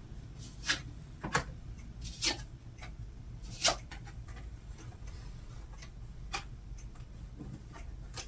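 Tarot cards being handled and shuffled: a string of short, light clicks and taps at irregular intervals, roughly one a second, over a faint steady low hum.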